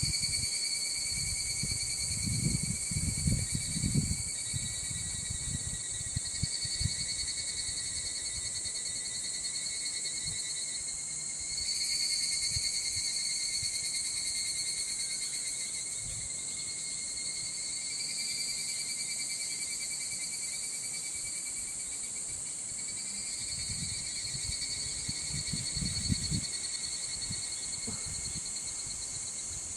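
Steady chorus of shrilling insects, a continuous high buzz with a couple of clear pitched bands that swell and fade slightly every few seconds. Irregular low rumbles come through for the first few seconds and again about 24 seconds in.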